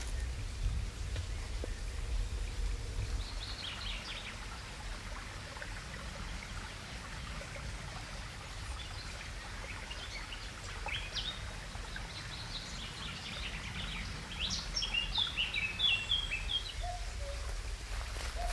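Songbirds chirping and singing in woodland over a steady low background rumble. Scattered short calls give way to a livelier run of song about three quarters of the way through.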